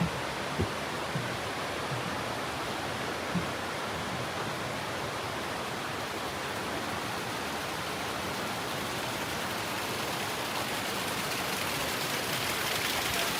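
Steady rush of water, growing a little louder and brighter toward the end, with a few soft knocks in the first few seconds.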